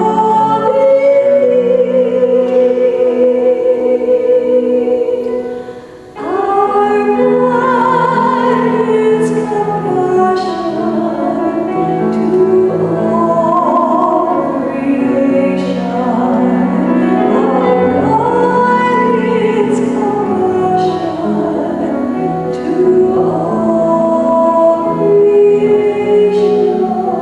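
Slow sung music: a vocalist holding long, wavering notes over accompaniment, with a brief pause between phrases about six seconds in.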